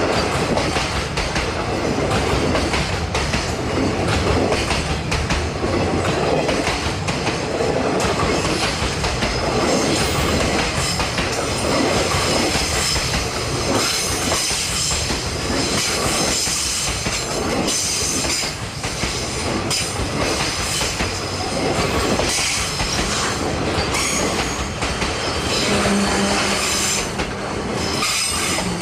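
JR Freight train's wagons rolling past steadily, wheels clacking over the rail joints. A high wheel squeal joins in about a third of the way through and carries on.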